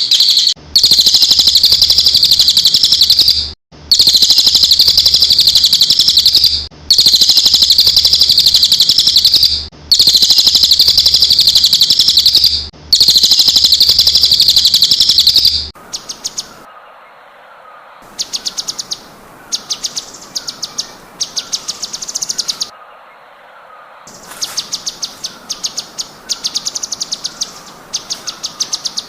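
Songbird song from a bird-training (masteran) recording: a run of loud, wavering trilled phrases about three seconds long, repeated with short gaps. About halfway it changes to quieter, rapid chattering trills in short bursts, with a softer repeated lower call beneath.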